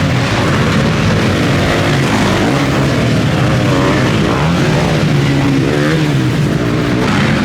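Several motocross bikes racing, their engines revving up and falling back in overlapping rising and falling pitches.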